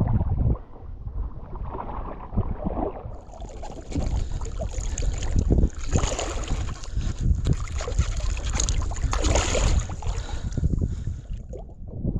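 Wind buffeting the microphone and water sloshing and splashing around a kayak, getting busier from about three seconds in, with a faint steady high whine over it.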